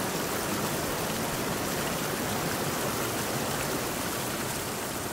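Water of a small stream rushing steadily over rocks in a stretch of rapids, an even, unbroken noise.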